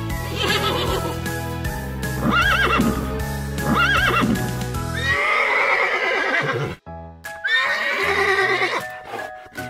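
Horses whinnying over background music: a few short calls in the first half, then two long, wavering neighs.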